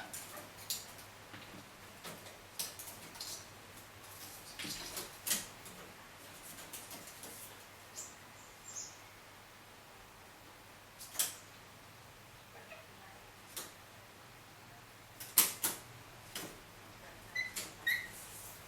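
Indian ringneck parakeets scrabbling and tapping on an air conditioner's casing: scattered clicks and scratches, loudest about two-thirds of the way through, with a few faint short chirps near the end.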